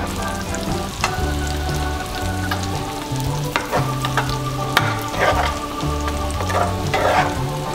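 Chicken pieces deep-frying in hot oil with a steady sizzle, while a spoon stirs sliced onions frying in a second pan, its scrapes and taps on the pan heard several times.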